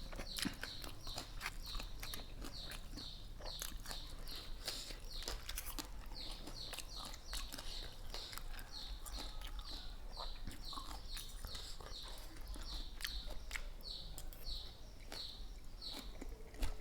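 A chick peeping over and over, about two high calls a second, each falling in pitch, with a couple of short pauses. Scattered sharp clicks sound alongside.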